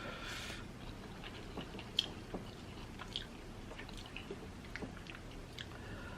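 A person chewing and biting seafood close to the microphone, with scattered small clicks of mouth and shell, one sharper click about two seconds in.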